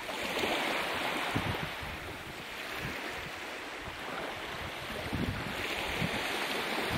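Small waves washing onto the shore, the surf swelling about a second in and again near the end, with wind rumbling on the microphone.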